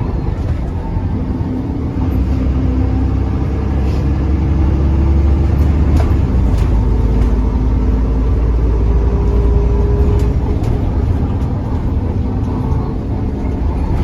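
Six-cylinder Cummins diesel engine of an ADL Enviro400 Trident bus pulling under load. A deep drone builds about two seconds in and eases off after about ten seconds.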